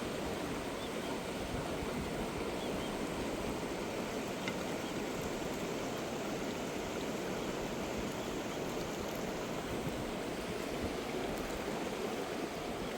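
Flowing river water, a steady rushing noise with no breaks.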